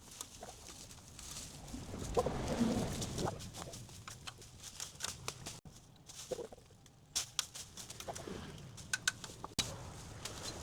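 Birds calling, with a scatter of sharp clicks and knocks that come thicker in the second half.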